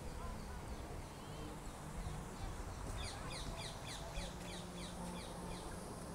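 Small birds chirping: a quick run of short, high, falling chirps starts about halfway through, over a steady low background rumble.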